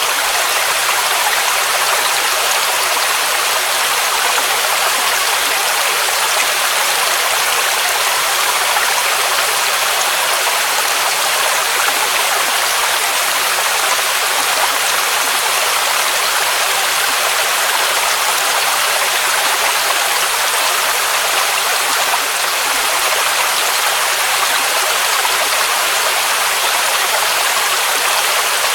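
Waterfall rushing steadily: an unbroken hiss of falling water, bright and even, with little low rumble.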